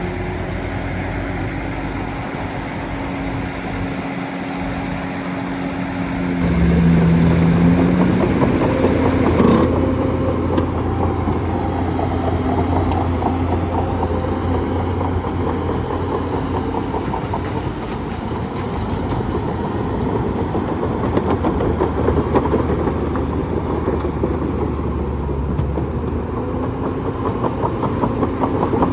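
Bulldozer's diesel engine running steadily. About six seconds in it grows louder with a deeper, heavier tone that holds until a few seconds before the end, with a sharp knock about ten seconds in.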